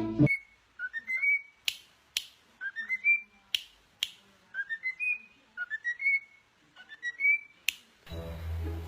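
A bird, such as a pet parrot, whistling a short rising phrase of a few stepped notes, repeated about five times, with sharp clicks between the phrases. Music comes in near the end.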